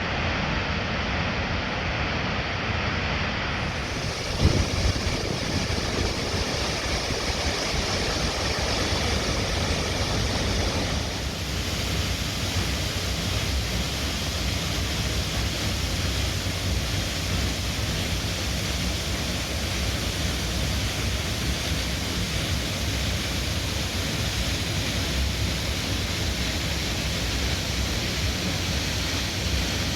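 Waterfall's steady rush of falling water, with a brief thump about four and a half seconds in.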